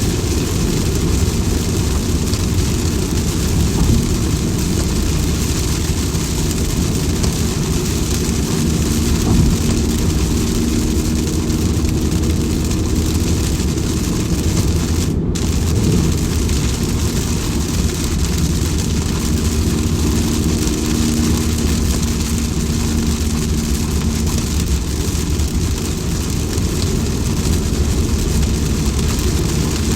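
Steady rain noise over a heavy low rumble. A faint steady hum rises out of it about a third of the way through and again a little past the middle. The higher hiss cuts out for an instant about halfway.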